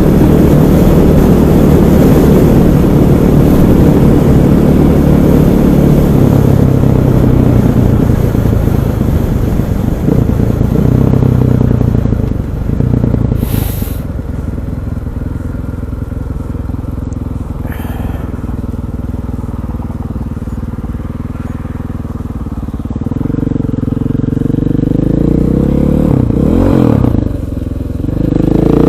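KTM 500 EXC's single-cylinder four-stroke engine running under way. It runs hard for the first dozen seconds, eases off through the middle, then climbs in pitch again near the end with a brief break before it picks up once more.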